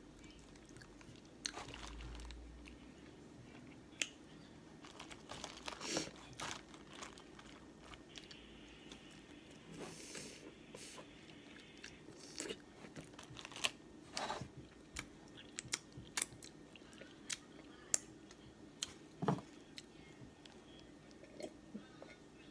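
A person eating boiled shellfish close to the microphone: chewing, with scattered sharp cracks and clicks of shell at irregular intervals.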